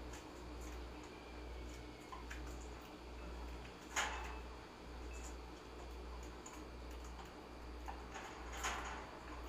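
Scattered small taps and clicks from caged finches and parakeets moving on their perches and pecking, with a sharper knock about four seconds in and another near the end. A low hum pulses underneath about one and a half times a second.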